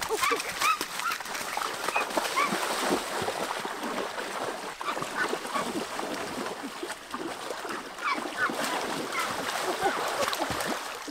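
A flock of birds calling, many short calls overlapping one another, over a steady rushing noise.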